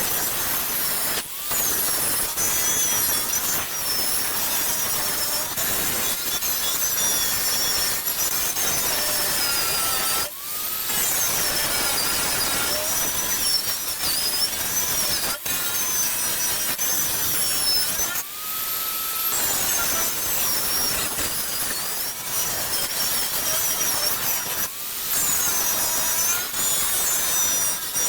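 Draper angle grinder with a wire wheel stripping rust from the car's steel floor panels. Its high whine wavers up and down as the wheel is pressed into the metal, with a few brief breaks.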